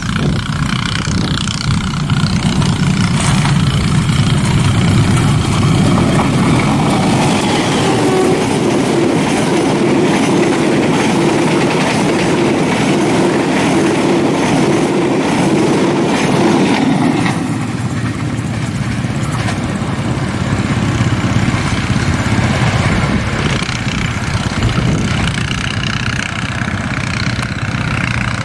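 Passenger train hauled by a diesel locomotive passing close by: engine noise, then the coaches' wheels rattling along the rails. The sound eases off a little about two-thirds of the way in, as the last coaches pull away.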